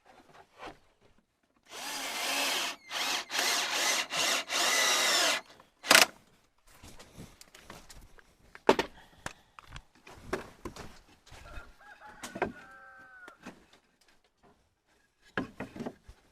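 Power drill run in several short bursts, its pitch changing with speed, typical of driving screws into wood while building nest boxes. After that come a sharp click and scattered knocks of wood being handled.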